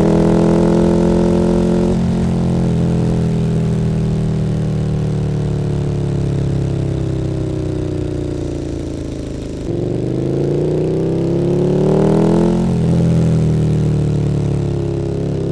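KTM 1290 Super Duke R's V-twin through an Akrapovič Evolution Line exhaust, with the motorcycle under way. The engine note falls slowly for about ten seconds as it coasts down. It then picks up sharply and rises for a couple of seconds as the throttle opens, before settling again.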